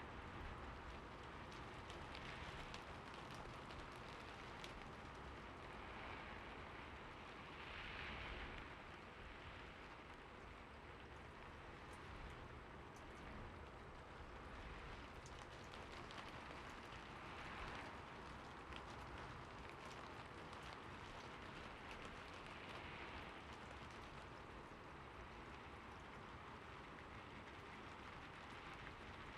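Soft, steady rainfall with faint scattered drop ticks, swelling slightly a couple of times.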